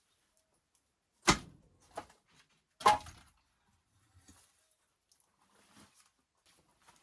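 Two loud thuds about a second and a half apart, with a lighter knock between them, followed by faint scattered handling noises.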